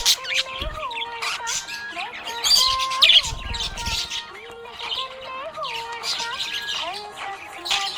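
Budgerigars chirping and warbling in quick, overlapping calls.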